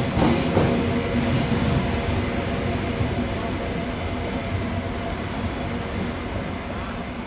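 Train moving away, its running noise fading steadily, with a few sharp wheel clicks over the rails just at the start.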